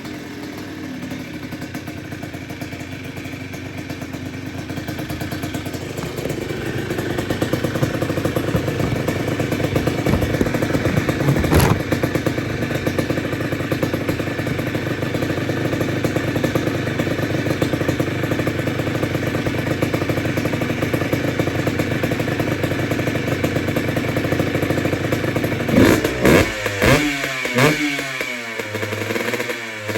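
Yamaha Blaster's 195 cc single-cylinder two-stroke engine running through an FMF exhaust pipe, at a steady idle that rises a little, with one sharp throttle blip about twelve seconds in. Near the end it is revved in several quick blips, each rising and falling in pitch.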